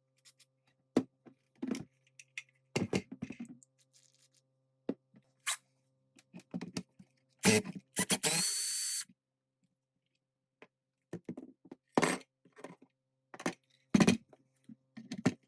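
Clinks and knocks of tools and metal parts while an old Bostitch N80S pneumatic nailer is worked on, with a brief whir of a small power driver a little past halfway.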